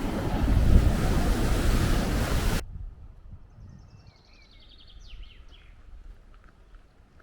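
Wind buffeting the microphone over surf, a loud rumbling rush that cuts off suddenly a little over two seconds in. A quiet stretch follows with a few faint, high, quick chirps.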